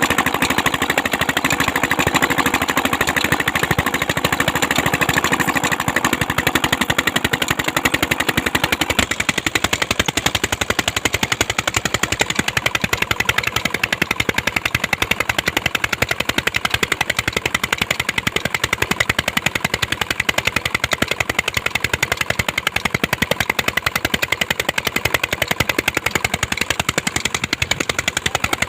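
Single-cylinder Peter diesel engine driving a tube well, running steadily with a rapid, even train of exhaust thumps.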